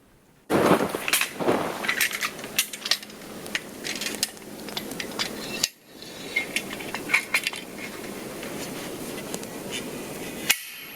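Dead standing tree being cut by hand for firewood: a rapid, irregular run of sharp knocks and cracks of wood, broken off abruptly twice.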